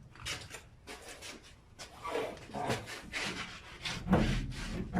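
Long-strand fiberglass filler being spread and pressed into a rust patch on a truck bed panel: a run of irregular rough scraping and rubbing strokes, growing louder near the end.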